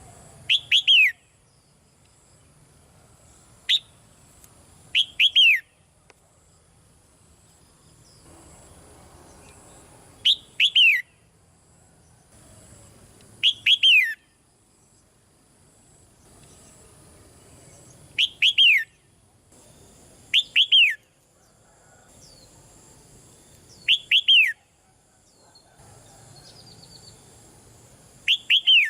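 Red-whiskered bulbul calling: short, loud bursts of two or three quick whistled notes that sweep downward, repeated about nine times a few seconds apart.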